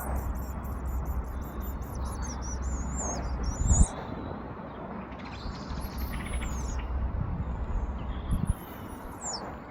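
European robin singing: high, thin warbling phrases, a long run for the first few seconds, then shorter phrases with pauses between. A steady low rumble lies under it, with a thump about four seconds in.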